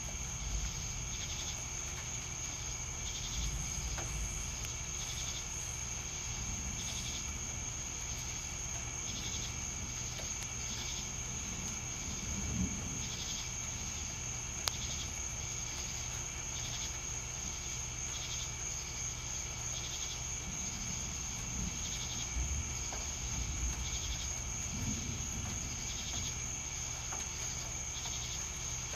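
Night insects calling: a continuous high cricket trill, with shorter pulsed chirps repeating about once a second. A low rumble sits underneath and swells a few times.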